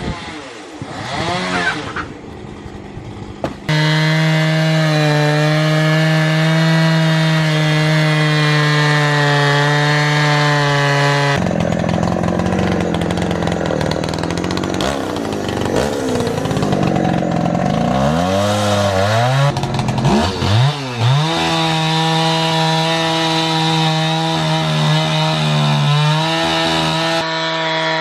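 Chainsaw engine running at a steady high pitch, then sagging and swinging up and down in pitch for several seconds as it bites into wood, then settling back to a steady high pitch near the end. It is quieter and wavering for the first few seconds.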